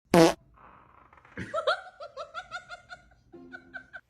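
A short, loud pitched blast, then a run of quick, rhythmic laughter, about four to five laughs a second, trailing off near the end.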